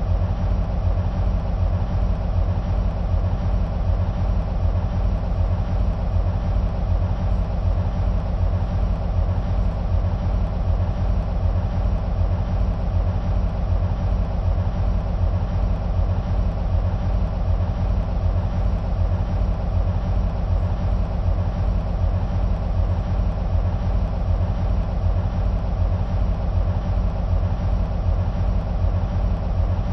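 EMD SW1500 switcher locomotives' 12-cylinder two-stroke diesel engines idling, a steady deep rumble that does not change.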